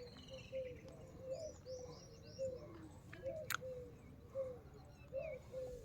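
A dove cooing faintly: a long run of short, low coos, often in pairs, with small birds chirping faintly higher up.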